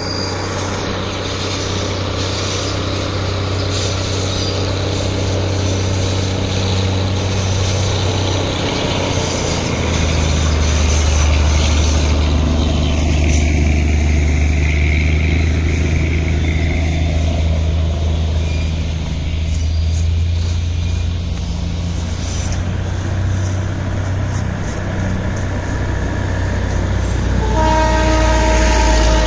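Indian Railways train running with a steady low rumble that grows heavier partway through. Near the end its horn sounds one steady blast of about two seconds.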